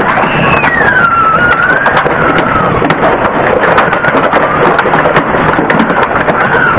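Heavy hail pelting down in a loud, dense clatter of countless small impacts. A thin wavering tone slides up and down faintly over it.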